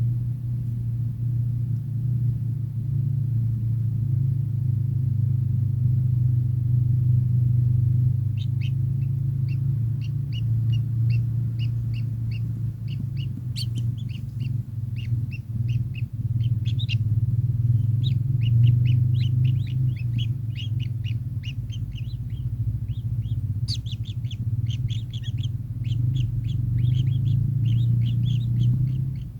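A kingfisher calling in rapid runs of short, sharp, high repeated notes, starting about eight seconds in and coming in bursts. Under it runs a steady low hum, the loudest sound throughout.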